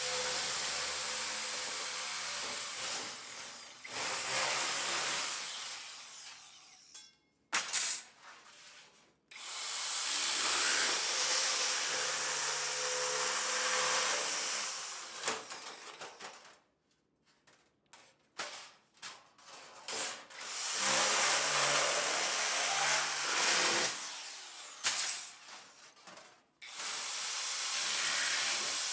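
Metalworking on the car's sheet-steel body, a power tool or welder run in three long bursts of several seconds each, a harsh hiss over a low hum, with short stabs and pauses between.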